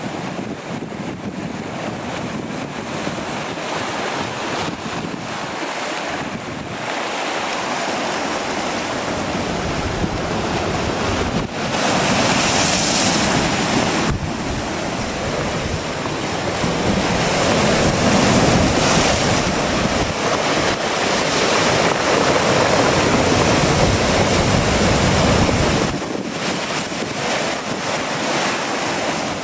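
Strong gusting wind buffeting the microphone over ocean surf, swelling louder about halfway through and easing off suddenly near the end.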